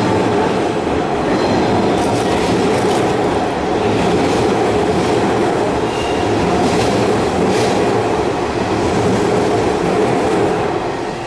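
Kintetsu electric train heard from inside the carriage while running: a steady, loud rumble of wheels on rails and running gear, with a few faint clicks at irregular moments.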